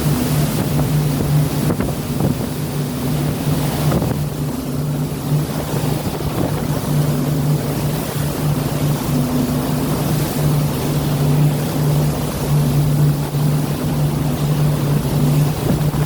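Steady low drone of a boat's engine over the rushing noise of sea water and wind.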